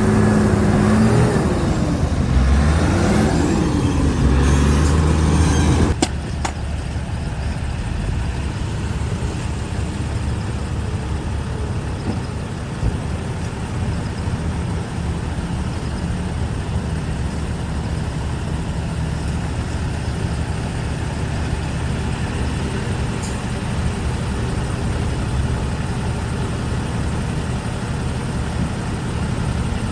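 Heavy diesel earthmoving machinery working. For about six seconds a loud engine revs up and down, then the sound cuts off abruptly to a steadier, quieter engine running.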